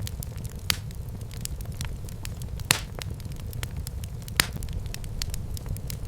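Wood fire crackling in a fireplace: a steady low rumble of flames with frequent small irregular crackles and a few louder pops, the loudest near the middle.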